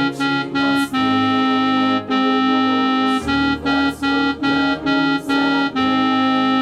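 Organ-like keyboard playing the contralto part of a hymn as a single line of detached notes, closing on a long held note.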